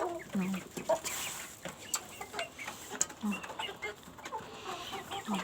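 Baladi hens and growing chicks clucking and peeping together, a scatter of short calls and low clucks, with a few small ticks and knocks among them.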